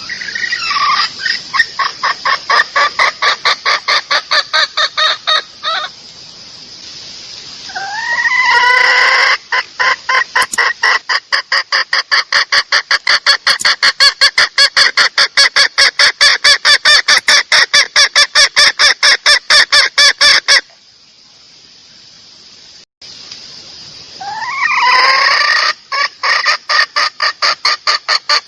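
Female junglefowl clucking in fast, evenly repeated notes, a hen's call used as a lure to draw in males. It comes in three bouts, each opening with a rising note, with a long bout in the middle and short gaps between, over a steady high hiss.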